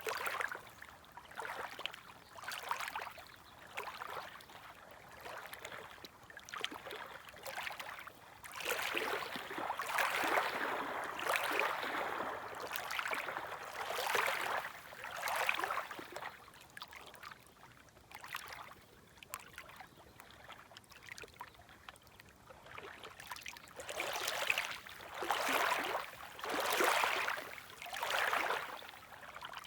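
Gentle small waves lapping and washing at the shoreline, one soft wash after another at an uneven pace, busier in the middle and again near the end.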